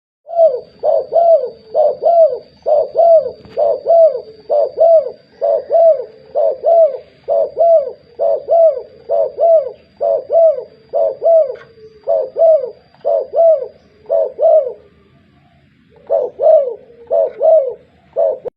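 Spotted dove (tekukur) cooing in a long, rapid series of short rising-and-falling coo notes, pausing for about a second some fifteen seconds in, then cooing again.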